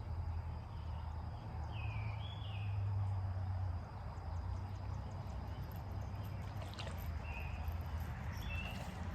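Creekside ambience: a steady rush of running creek water with a low rumble, and a few short chirps about two seconds in and again near the end.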